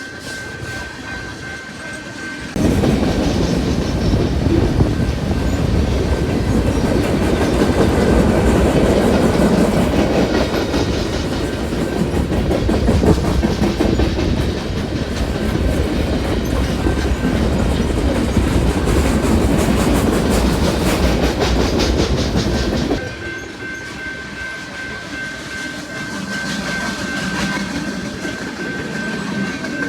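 Freight train of flatcars loaded with military vehicles rolling past at high speed, wheels clattering over the rail joints with a heavy rumble. The sound switches abruptly to a louder, closer rumble about two and a half seconds in and drops back just as abruptly near the end.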